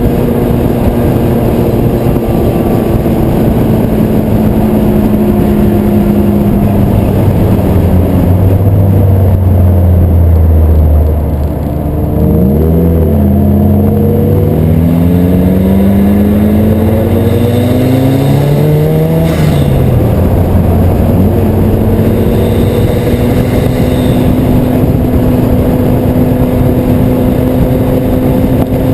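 Car engine running at highway speed: the revs sag with a brief dip about twelve seconds in, climb steadily for several seconds under acceleration, fall sharply around twenty seconds in, then run on and slowly rise again.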